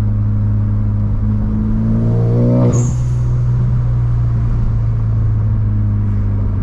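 Ford Focus ST's turbocharged four-cylinder engine droning at a steady cruise, rising in pitch for under a second as it revs, then a short sharp sound with a hiss as the revs drop about three seconds in, after which it settles back to a steady lower drone.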